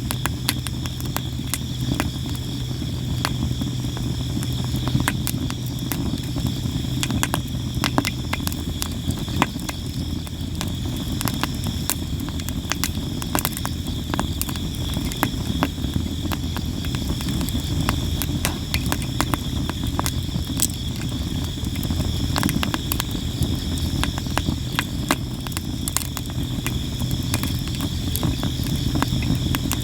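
Campfire of sawara cypress wood crackling and popping constantly, with frequent sharp snaps over a low steady rumble. Insects chirp steadily and thinly in the background.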